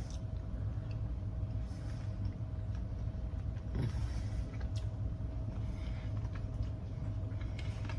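Steady low rumble with a faint constant hum, broken by a few soft clicks.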